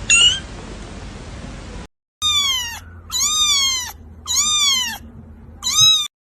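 Kitten meowing: one short meow at the start over a background hiss, then, after a brief gap, four separate high meows about a second apart, each rising and then falling in pitch.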